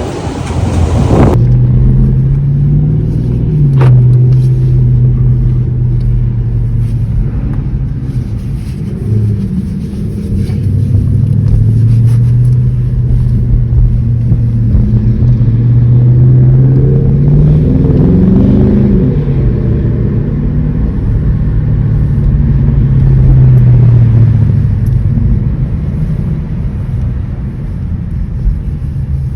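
V8 muscle car engine and exhaust running at a steady cruise with a low drone, its pitch rising briefly twice as it revs up before settling back.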